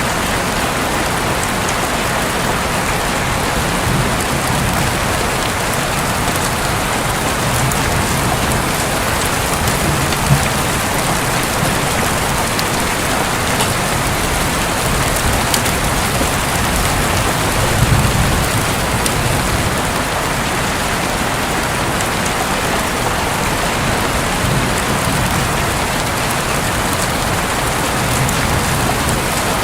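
Steady heavy rain pattering on a roof, with individual drops ticking sharply here and there.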